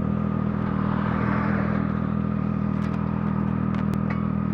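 2015 Triumph Street Triple Rx's 675 cc three-cylinder engine idling steadily through an aftermarket Coffman's exhaust, freshly started and not yet warmed up. It is heard through a microphone inside the rider's helmet.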